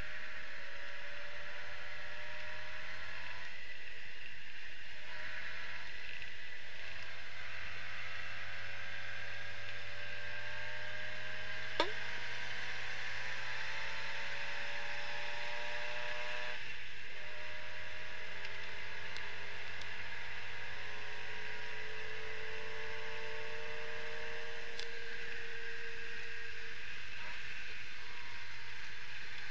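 Triumph Herald 1200's four-cylinder engine pulling the car along, heard from inside the cabin: its pitch climbs steadily and drops back at each of a few gear changes, then holds steadier near the end. A sharp click sounds about twelve seconds in.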